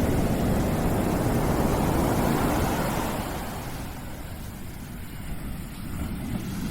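A deep, steady rushing noise, heaviest in the low end. It eases off about three seconds in and builds again near the end.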